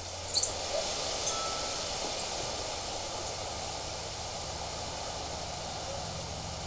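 Wind blowing across an outdoor microphone, a steady hiss, with a low steady hum underneath and two brief high ticks, about half a second and just over a second in.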